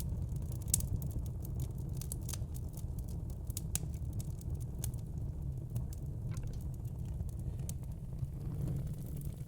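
Wood fire in a fire pit crackling: irregular sharp pops and snaps scattered over a steady low rumble.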